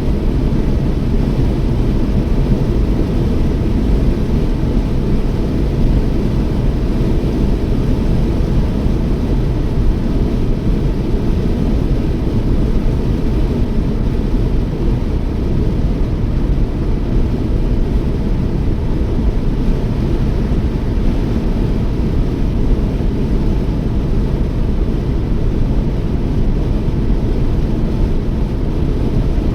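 Steady road and engine noise of a Toyota Yaris driving, mostly low-pitched, with an even level.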